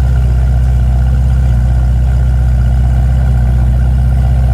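Car engine idling close by: a steady, loud, deep rumble with a fast, even pulse.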